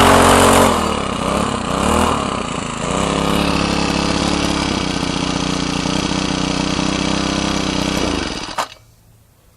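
Troy-Bilt four-cycle string trimmer engine running, its pitch rising and falling for the first three seconds, then running steadily before it dies about eight and a half seconds in. Stalling like this is typical of this engine as it struggles to keep running.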